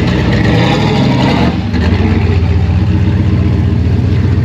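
Car engine running loud, revving up for the first second and a half, then dropping back to a steady, deep idle.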